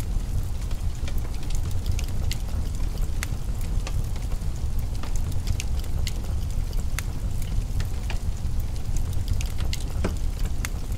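Wood fire crackling in a fireplace: scattered sharp pops and snaps, a stronger pop near the end, over a steady low rumble.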